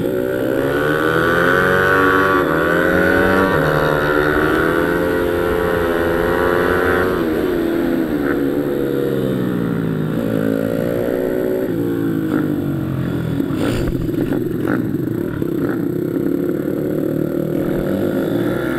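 Pit bike engine revving hard, its pitch climbing and dropping every second or two as it accelerates, shifts and backs off. In the last few seconds it turns rougher and less clearly pitched.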